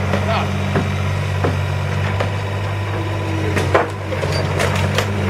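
Diesel engine of a demolition machine running steadily while the timber building's wood cracks and splinters as it is pulled down. The cracks are scattered at first and come thick and fast near the end.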